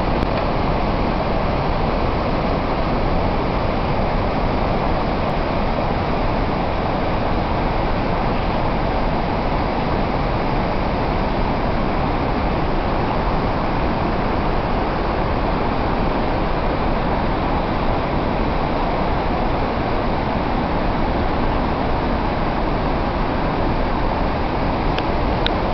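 Tarsus waterfall's water pouring and rushing in a loud, steady, unbroken roar of noise.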